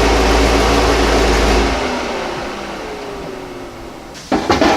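A vehicle engine running steadily, then switched off about two seconds in, with a falling whine as it winds down. A few sharp knocks come near the end.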